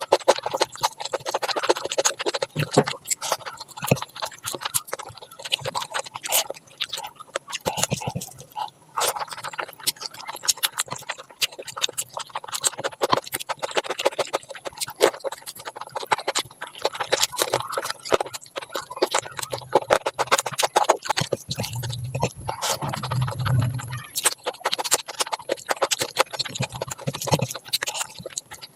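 Close-miked eating sounds: wet chewing and smacking, a dense run of small mouth clicks, with a brief low hum about three quarters of the way through.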